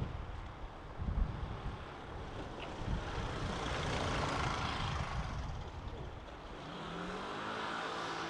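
A vehicle passing, its noise swelling and fading, with wind buffeting the microphone; near the end a lower hum falls slightly in pitch.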